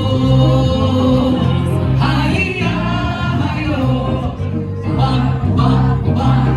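A live band playing a Brazilian samba-style song, with a steady bass line and singing over it.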